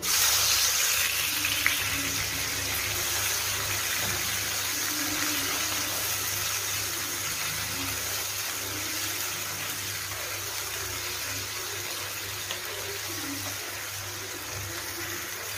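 Raw shrimp dropped into hot oil in a nonstick wok, setting off a loud sizzle all at once. The frying then eases off gradually as the shrimp are stirred.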